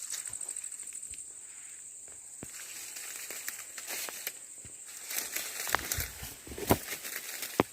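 Dry leaves and twigs crackling and rustling, with scattered snaps that come thicker and louder in the last few seconds. A steady high insect drone sounds at the start and fades after about a second.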